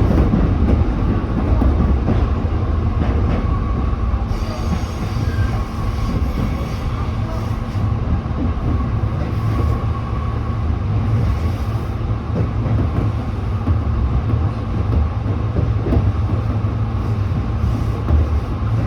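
Tobu 8000-series electric train running on the line: a steady low rumble of wheels on rails with a thin steady high tone above it.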